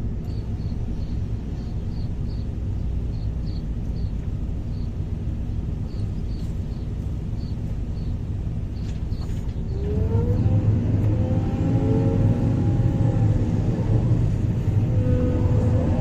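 Sumitomo 490 excavator's diesel engine running steadily, with a faint regular ticking in the first half. About ten seconds in the engine note rises and grows louder, with a whine that rises and holds, as the machine works under hydraulic load.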